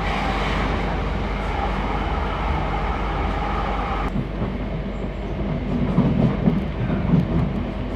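Rail carriage running on the track, heard from inside: a steady rumble. About four seconds in the higher hiss drops away sharply, and a few louder low rumbles follow near the end.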